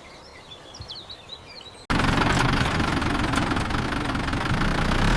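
Faint bird chirps, then about two seconds in a tractor engine sound cuts in suddenly and runs steadily and loudly.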